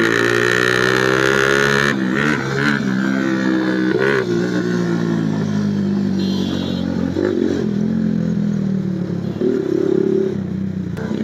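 Hi Speed Infinity 150cc motorcycle engine running on the move, its pitch easing down over the first couple of seconds, then holding fairly steady with small rises and dips.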